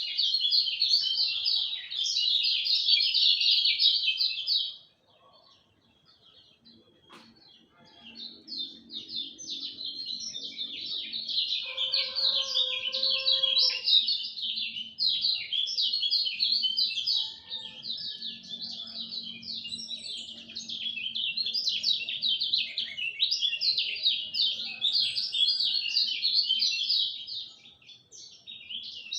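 Kecial kuning white-eye singing a long, fast chattering song of rapid high notes. It stops for about three seconds around five seconds in, then sings on with a short break near the end.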